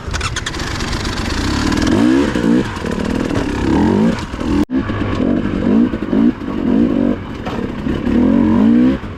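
Dirt bike engine revving hard under load on a steep hill climb, its pitch surging upward again and again, each surge under a second apart, with a short clatter at the start.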